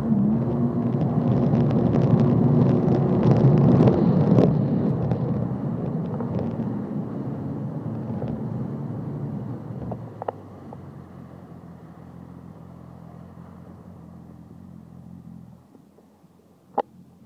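Jet ski engine running at speed while towing an inflatable ring, with water noise. It is loudest a few seconds in, then fades steadily as it moves away and drops out near the end, followed by a couple of sharp clicks.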